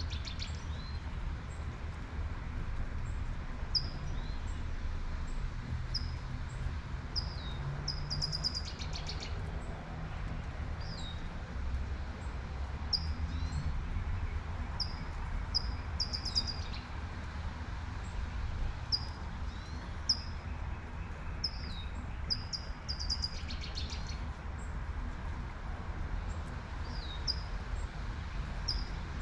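Birds chirping and singing in short repeated notes, with a couple of longer trills, over the steady hiss of light rain and a low rumble of traffic.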